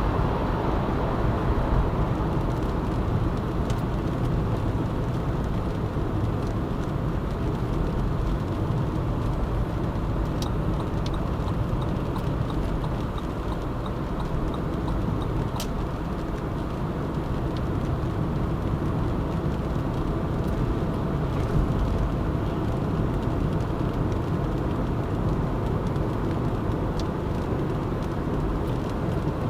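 Car driving at steady speed in traffic, with an even rumble of tyre and engine noise. A faint, regular ticking comes in for a few seconds about a third of the way through.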